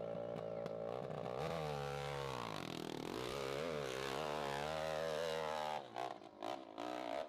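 Motorcycle engine running hard on a steep hill climb, its pitch rising and falling as the throttle is worked. It drops off about six seconds in, leaving a few short bursts of throttle.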